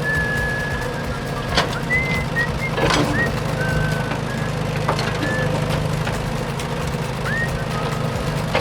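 Small motor of a miniature construction vehicle running with a steady low hum. Birds chirp over it in short whistled notes and quick rising sweeps. A few sharp clicks or knocks fall about one and a half, three and five seconds in.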